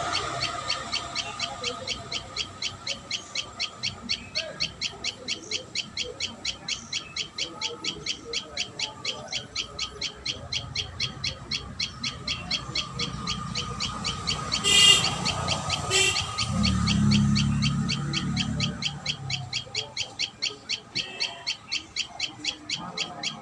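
A high bird call repeated steadily, about three to four notes a second. About two-thirds of the way through come two sharp knocks, then a low rumble for a few seconds.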